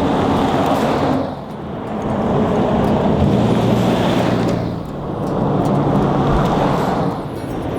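A vehicle on the move, its engine pulling steadily with a brief drop in loudness about a second in, again near five seconds and near the end, like gear changes as it gathers speed.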